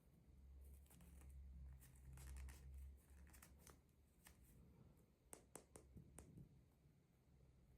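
Quiet handling sounds of toy packaging: faint rustling with a scatter of light clicks, a few sharper clicks about five and a half to six seconds in.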